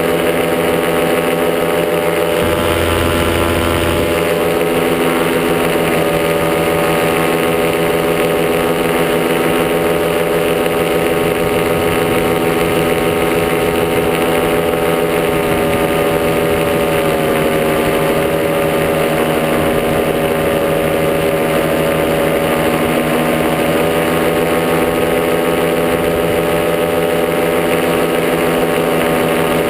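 Top80 two-stroke paramotor engine running steadily in flight, its pitch shifting a little about halfway through. A short low rumble comes in about three seconds in.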